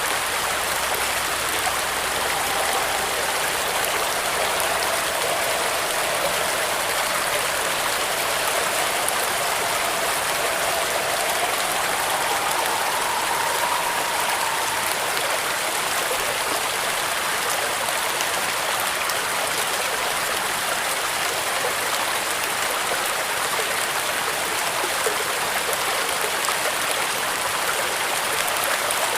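Steady heavy rain drumming on a zinc roof, an even hiss throughout. A faint wind whistle wavers and rises in pitch from about two seconds in, fading by about fifteen seconds in.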